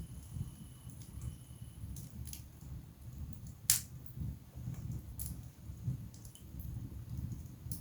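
Wood fire burning in a fireplace: a low rumble of flames with scattered crackles from the burning logs and one loud pop about halfway through.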